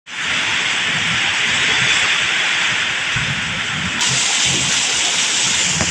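Heavy rain pouring down in a loud, steady hiss, turning brighter about four seconds in.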